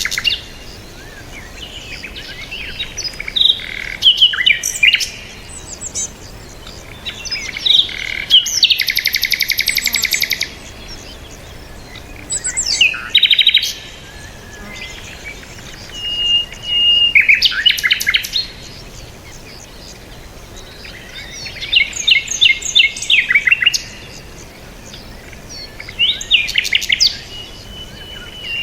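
Birds chirping and singing in short bursts of quick high notes, with a fast rapid trill about nine seconds in and a held thin whistle twice, the second near the end.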